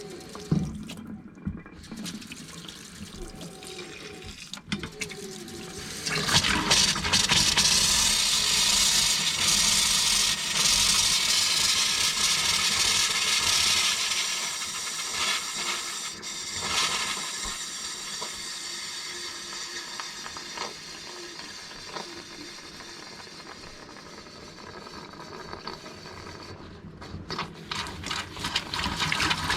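Water rushing from an RV's hot water tap, which starts loudly about six seconds in and gradually eases off before picking up again near the end. The tap is open to purge air from the refilled water heater tank.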